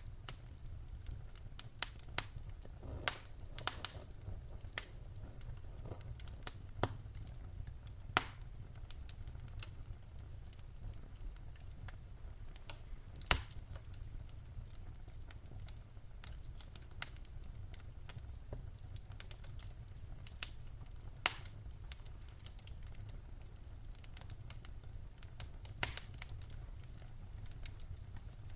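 Wood fire crackling in a fireplace: irregular sharp pops and snaps from the burning logs, the loudest about halfway through, over a steady low rumble.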